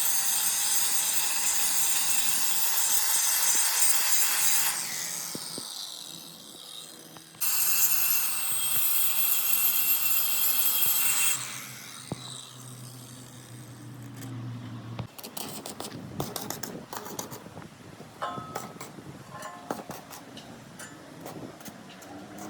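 Power grinder working on steel in two bursts of about four seconds each, a harsh high-pitched grinding noise with a faint whine in it. A low hum follows, then scattered light metal clicks and taps.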